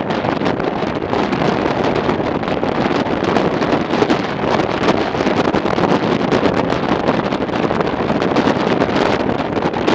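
Wind rushing over the microphone of a moving motorcycle, with the bike's running and road noise underneath: a strong wind is blowing.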